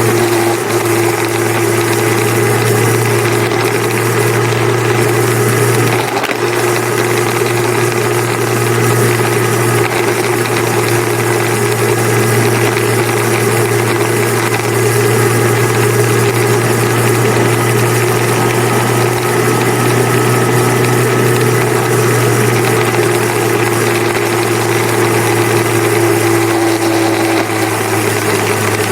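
Motorcycle engine running at a steady, even speed while riding, with road and wind noise over it.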